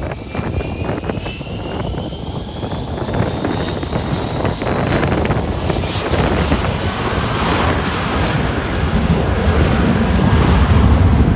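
Departing airliner's engines, their whine rising steadily in pitch over several seconds as it takes off. Wind gusting on the microphone adds a low rumble that builds toward the end.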